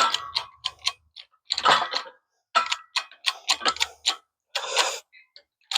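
Runs of rapid clicking in about five short bursts with pauses between, from tools working to press a U-joint cap out of a driveshaft yoke.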